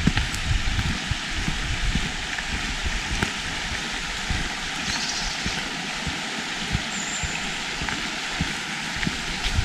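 Steady hiss of water running through the whole stretch, with irregular low thumps underneath and a short high chirp about seven seconds in.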